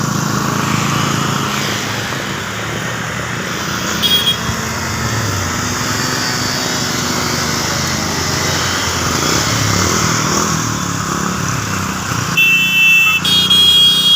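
Steady hiss of rain with motorcycles and other road traffic running past. A short horn honk comes about four seconds in, and louder, longer horn honks come near the end.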